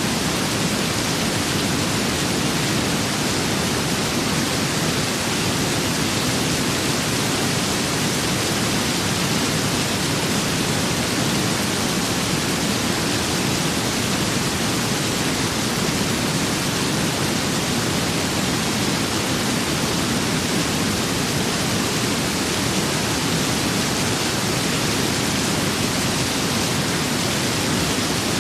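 Steady rain and wind ambience: an even, unbroken hiss with no separate drops, gusts or changes standing out.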